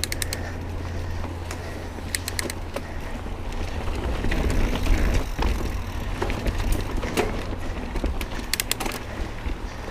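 Mountain bike riding over a rocky trail: a steady low rumble of tyres on the ground with rattling, loudest about halfway through, and short runs of rapid clicks a few times.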